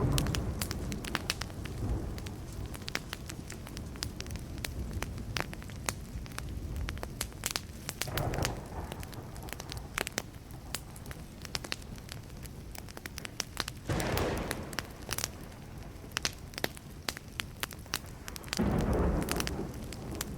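Burning wood fire crackling, with frequent sharp pops and snaps. Low rumbles of distant thunder swell and fade three times, a third of the way in, about two-thirds in and near the end, the last the loudest.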